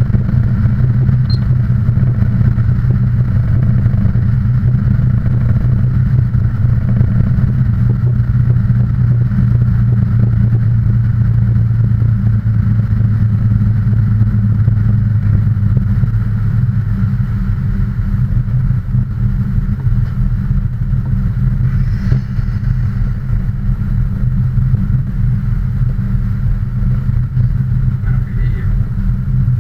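A steady low engine drone from a running motor vehicle, easing slightly about halfway through.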